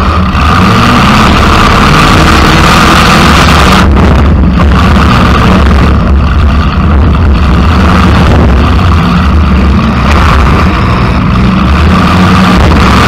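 Demolition derby car's engine running loud and rough through short open exhaust stacks that stick straight up through the hood.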